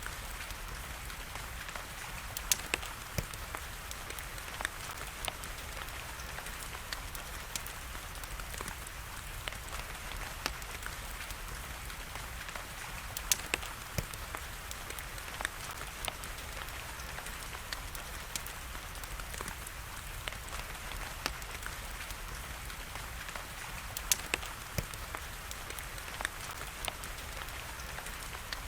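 Steady rain hiss with the irregular sharp crackles and pops of a burning wood fire scattered through it, a few of them louder than the rest.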